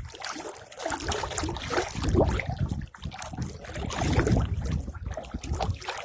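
Flowing stream water rushing and splashing: an uneven, noisy wash with irregular low rumbles.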